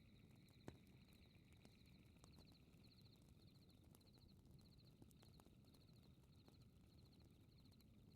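Faint fireplace crackling: a soft low rumble with a few sharp pops, the strongest less than a second in. Over it runs a high, even chirping, about two chirps a second.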